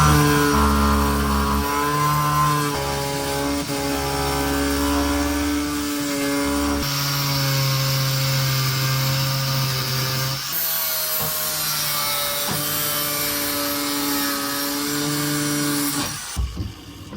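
Angle grinder running steadily while cutting out the boat's old floor, its whine shifting in pitch a few times as the load changes; it stops abruptly near the end.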